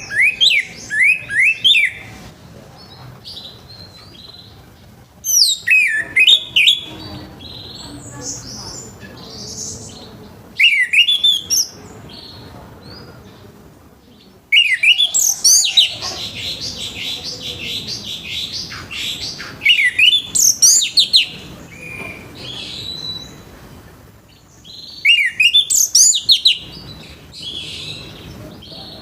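Orange-headed thrush singing its full song: loud phrases of quick, sweeping whistled notes, each phrase lasting a second or two with pauses of a few seconds between, and one longer, denser run of song about halfway through.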